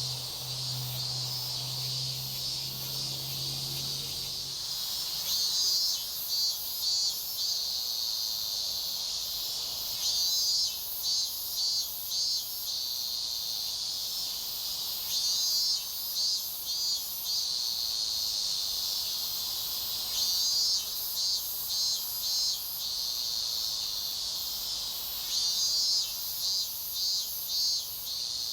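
Summer insects making a steady high-pitched drone, with a louder pulsed, chirring phrase repeating about every five seconds. A low hum fades out about four seconds in.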